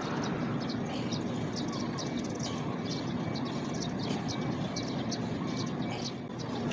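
A bird chirping over and over in short, high calls, a few a second, over a steady low background rumble.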